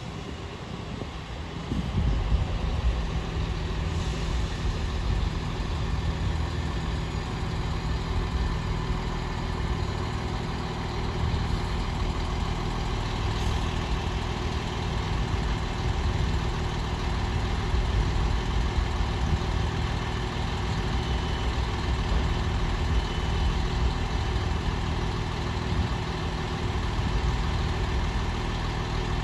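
Underfloor diesel engines of a Class 158 diesel multiple unit idling while it stands at the platform, a steady engine hum that steps up in loudness about two seconds in and then holds even.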